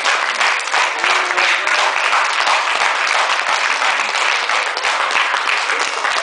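Audience applauding: dense, steady clapping, with faint voices underneath.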